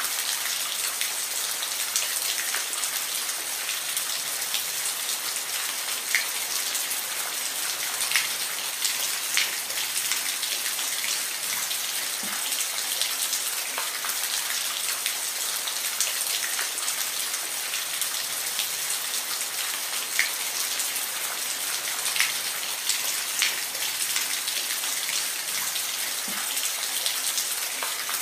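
Steady rain falling, a dense hiss with individual drops ticking sharply on a surface here and there.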